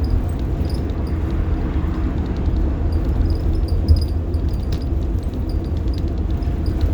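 Rear-mounted diesel engine of a 1990 Blue Bird All American school bus running steadily under way, a deep, even rumble with road noise, heard from inside the bus.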